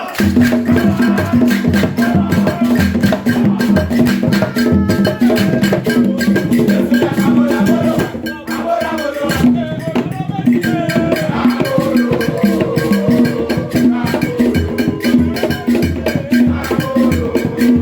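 Band music with a fast, busy percussion beat over a pulsing low note, played through the hall's sound system during a sound check; a held melody line comes in about two-thirds through.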